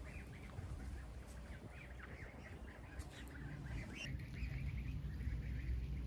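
Many birds calling at once, a dense run of short overlapping calls, over a low rumble.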